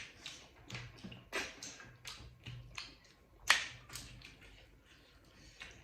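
Irregular light taps and clicks, the sharpest one about three and a half seconds in, over a faint low hum.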